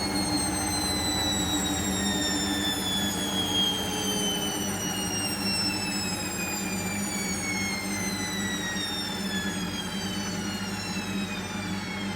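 Hoover Vision washing machine's drum and motor slowing down at the end of the 1000 rpm final spin: a whine falling steadily in pitch over a low hum.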